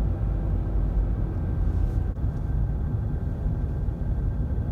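Suzuki Swift 1.3-litre engine and road noise heard from inside the cabin: a steady low rumble as the car slows in third gear on engine braking.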